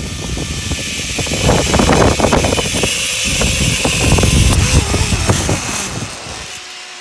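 Zipline trolley running along the cable with wind rushing over the microphone. The rush drops away sharply about six and a half seconds in.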